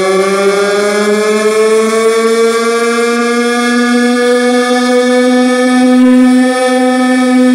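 A loud, siren-like electronic tone played through a large PA sound system, slowly gliding up in pitch and starting to fall near the end.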